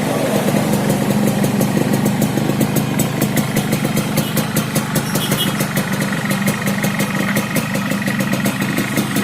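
Yamaha RX-King 135cc two-stroke single-cylinder engine idling steadily through a stock, ungutted exhaust fitted with a modified baffle. The carburettor is set rich, a 'wet' setting.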